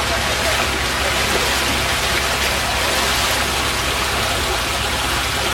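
Steady, dense rush of water noise from the flood, with no breaks or pauses.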